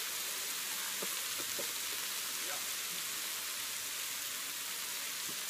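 Burger patties, bacon and sliced onions sizzling steadily on a hot Blackstone flat-top griddle.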